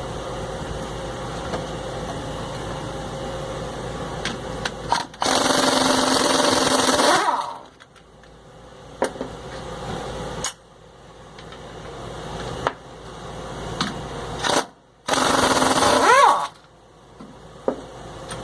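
Pneumatic impact wrench hammering in two bursts of about two seconds each, the second ending as the tool spins down, while parts are unbolted from a truck's rear differential. A steady machine hum runs underneath before the first burst.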